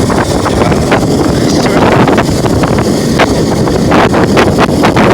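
Loud wind rushing over the phone's microphone while riding a dirt bike, with scattered clicks and knocks from the phone being jostled.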